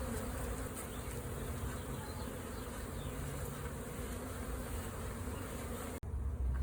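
Large honey bee swarm buzzing steadily, a dense hum of many bees. About six seconds in, it cuts off abruptly and a low rumble takes over.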